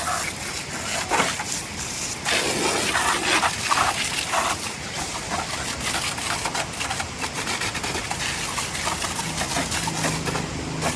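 Water spraying and splashing as a dusty motorcycle is washed down, an uneven rushing hiss that keeps changing, with a low steady hum for a couple of seconds near the end.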